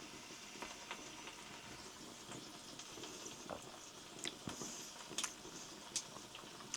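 Faint sizzling of watery marinated meat on a grill over glowing embers, with scattered small crackles and pops.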